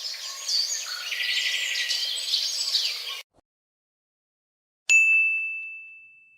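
About three seconds of birds chirping in a dense chatter, cut off abruptly. After a short silence comes a single bright ding that rings on one high tone and fades out over about a second and a half.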